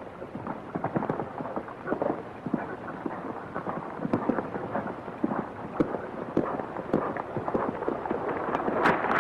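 Horse hoofbeats: an irregular run of thuds that grows a little louder toward the end.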